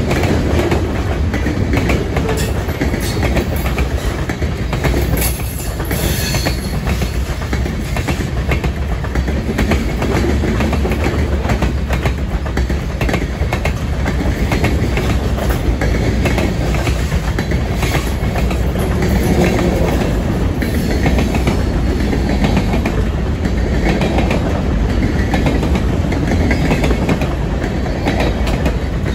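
Train running on the rails, its wheels clicking and clacking steadily.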